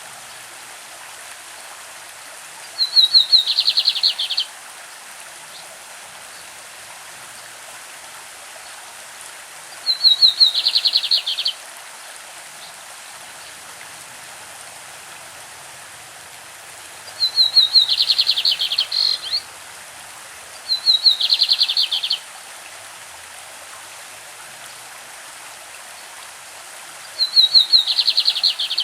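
Lined seedeater (bigodinho) singing its classic song: five short phrases, each a quick run of ticking notes that turns into a fast buzzy trill, repeated every few seconds. A steady rush of a stream runs underneath.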